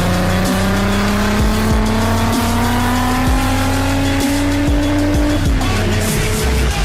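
Engine of a VW Golf Mk1 GTI pulling under acceleration, its note rising steadily for about five seconds, then dropping as the throttle lifts or it shifts. Music plays underneath.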